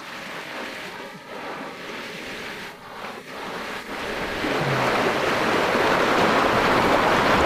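Rushing water of a mountain river, growing louder about four seconds in and then steady.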